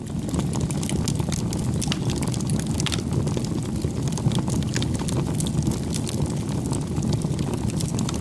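Crackling bonfire: a steady low rumble of burning with frequent sharp pops and crackles of wood scattered throughout.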